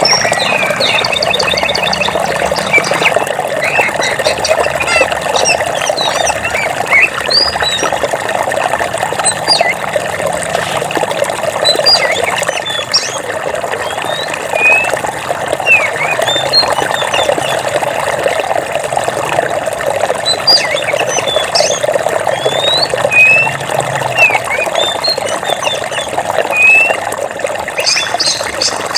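Water running steadily, as from a stream, with small birds chirping in short, scattered calls over it. A fast trill comes in briefly at the start and again near the end.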